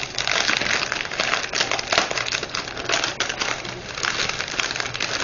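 Plastic packaging crinkling and rustling with many small clicks, as bags of diamond-painting drills are handled and pulled from their packet.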